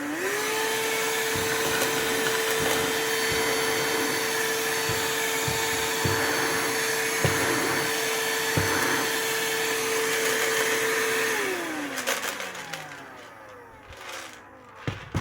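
Silvercrest SHSA 20-Li A1 cordless vacuum cleaner's brushed motor spinning up and running with a steady whine over a rush of air, then switched off and winding down with a falling pitch about eleven seconds in. Several sharp clicks along the way as screws are sucked up into it.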